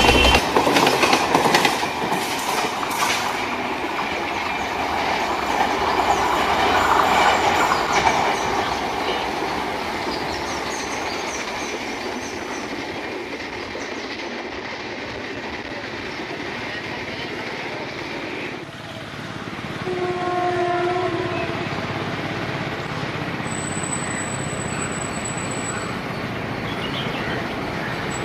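Passenger train running, its wheels clattering over the rail joints. About twenty seconds in there is a short pitched tone, like a horn.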